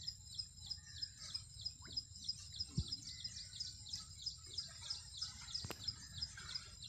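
A small bird calling in a fast, regular series of short high chirps, about five a second, over faint outdoor background noise, with one sharp click late on.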